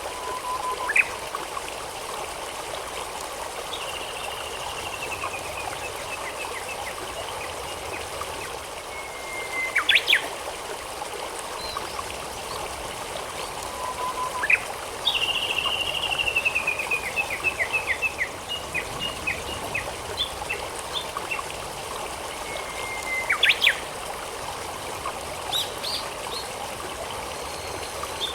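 Japanese bush warbler singing its 'hoo-hokekyo' song: a whistled note followed by a quick sharp flourish, three times, and once a long falling run of rapid repeated notes. A stream trickles steadily underneath.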